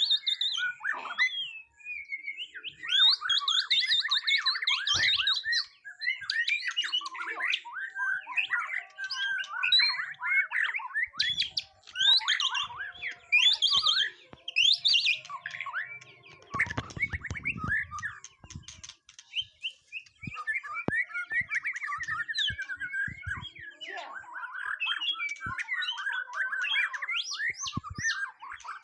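White-rumped shama singing a long, fast, varied run of whistles, chirps and trills with only short breaks. A brief low rustle sounds about two-thirds of the way through.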